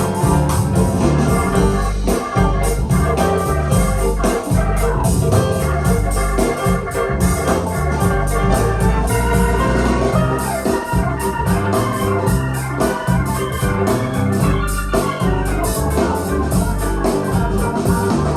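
Instrumental music played back through Tannoy Platinum B6 stereo speakers with a subwoofer, at a steady level with a heavy bass line.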